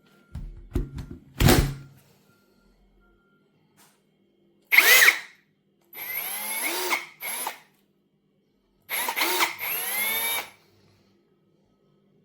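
Einhell TP-CD 18/80 Li-i BL cordless brushless drill-driver run in separate trigger pulls, its motor whine rising and falling in pitch: one short burst, a run of about a second, a brief blip, then a longer run of about a second and a half. A few knocks from handling the tool come first.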